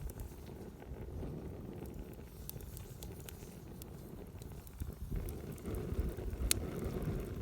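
Wood campfire crackling with scattered sharp pops, one louder pop about six and a half seconds in, over a low rumble of wind on the microphone that swells near the end.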